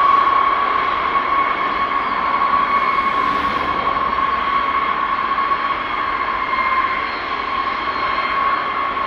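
Eight jet engines of a B-52 Stratofortress running at high power, a steady loud noise with a high, even whine.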